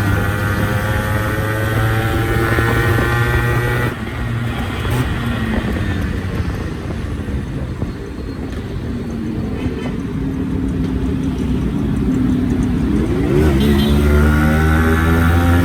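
Yamaha RX-series two-stroke single-cylinder motorcycle engine running, its pitch falling over the first few seconds and dropping back sharply about four seconds in. It then runs lower and quieter before revving up again with rising pitch near the end.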